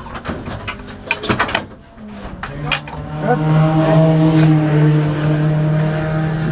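Sharp clicks and clunks of gear being handled inside the car, then, about two and a half seconds in, the 2002 Nissan Maxima's V6 comes in with a brief rise and settles to a steady idle.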